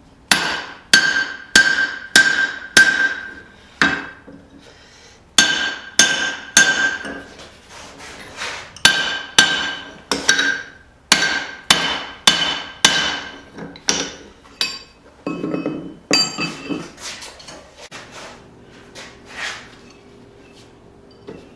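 Hand hammer blows on a steel hammer drift driven into the punched eye of a hot forged hammer head, struck about twice a second in short runs, many of them with a bright steel ring. The blows stop a few seconds before the end, leaving a low steady hum.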